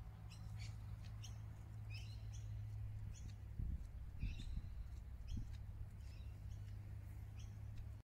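Small birds chirping: short, high, repeated chirps scattered throughout, over a steady low hum, with a few low thumps about halfway through.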